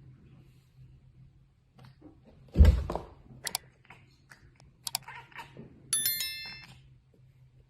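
A heavy thump about two and a half seconds in, then a few sharp clicks and knocks, and near the end a short ringing ding of several tones.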